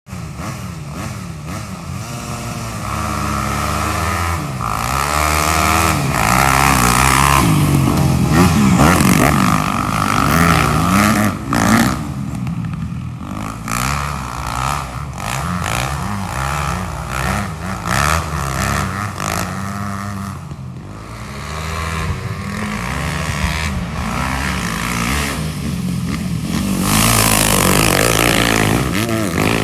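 Off-road engines of a quad and a dirt bike revving up and down as they ride, the pitch climbing and falling again and again, loudest about a third of the way in and again near the end.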